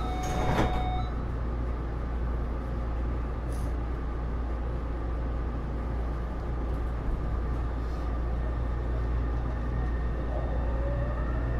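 Taipei Metro C301 metro car running, heard from inside: steady rumble of wheels on rail, with a sharp knock about half a second in. A few steady inverter tones cut off about a second in, and near the end a rising whine begins from the Bombardier IGBT-VVVF traction inverter as the train takes power and speeds up.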